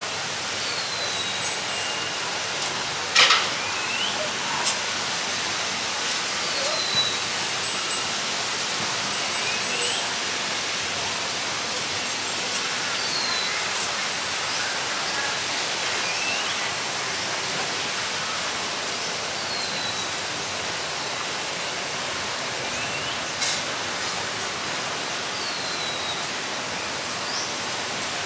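Short, falling bird chirps repeating every few seconds over a steady hiss of outdoor background noise, with a sharp click about three seconds in.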